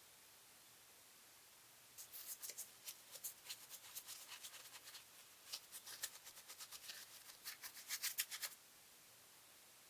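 A quick run of short, scratchy rubbing strokes, like hand scrubbing on engine-bay surfaces during detailing. It starts about two seconds in and stops shortly before the end.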